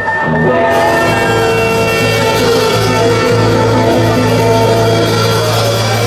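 Live band playing an instrumental stretch of a song: guitar over a steady bass line and drums.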